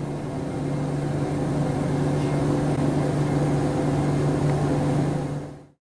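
Steady low mechanical hum with a fixed pitch that fades out shortly before the end.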